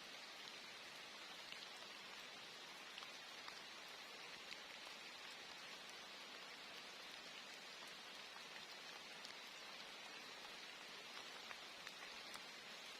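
Rain falling steadily as an even hiss, with scattered faint ticks of single drops.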